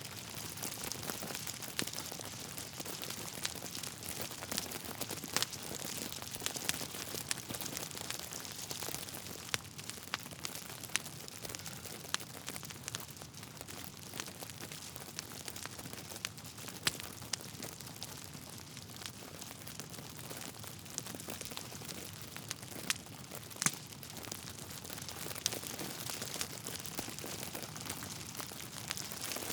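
Logs burning in a fireplace, crackling: a steady soft hiss with sharp pops scattered at irregular moments, one of the loudest about three-quarters of the way through.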